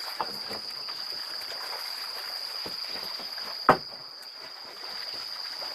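River water moving around a boat on the move, with small scattered ticks and a steady thin high whine. A single sharp knock comes a little past halfway.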